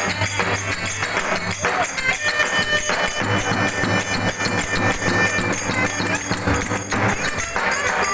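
Mehter band music: held, shrill reed-pipe notes over a steady drum beat and regular jingling cymbal strokes.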